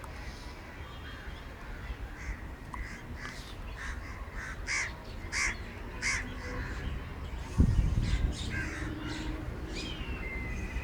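Crows cawing repeatedly over a steady low rumble, with a single dull thump a little past halfway that is the loudest moment.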